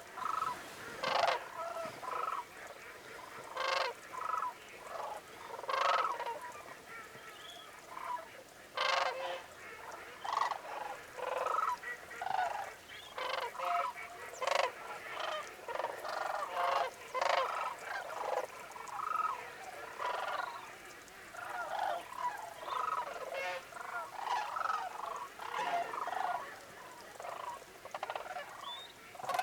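A large flock of sandhill cranes calling, their rolling, trumpeting calls overlapping one after another about every second.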